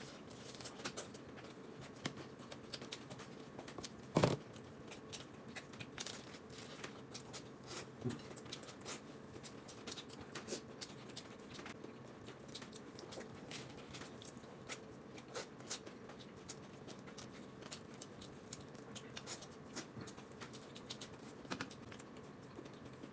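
People eating lettuce-leaf wraps and steamed buns close to the microphone: a steady patter of small crunches and mouth clicks from chewing, with one louder thump about four seconds in.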